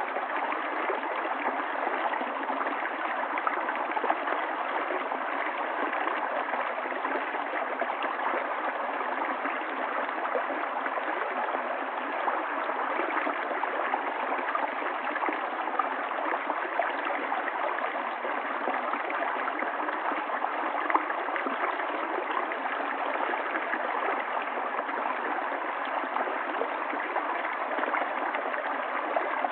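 Running water of a stream, a steady unbroken rush without deep rumble or high hiss.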